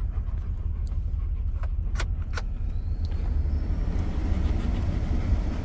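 Car running while parked, a steady low rumble heard inside the cabin, with a few light clicks about two seconds in.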